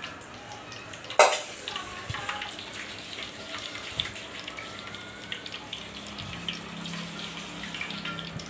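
Cooking oil heating in a kadai on a lit stove: a steady hiss with scattered small crackles, and one sharp knock about a second in.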